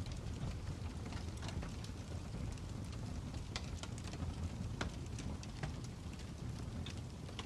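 Wood fire crackling: a steady low rumble with irregular sharp pops and snaps scattered throughout.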